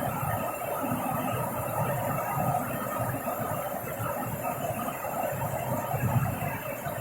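Rain falling in a steady, irregular patter.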